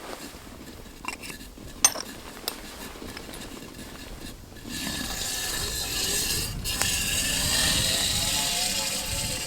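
A few sharp metal clinks of camp cookware, one ringing briefly. About five seconds in, a steady pour of liquid begins, water being poured into a vessel, with its note rising slightly as it fills.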